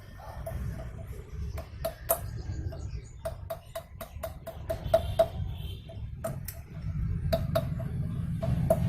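Irregular light metal taps, each with a short ringing note: a circlip being tapped into its groove in a vintage Jawa motorcycle's front wheel hub to seat it.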